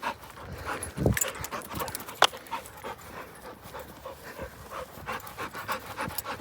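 A dog panting in quick, even breaths, with a low thump about a second in.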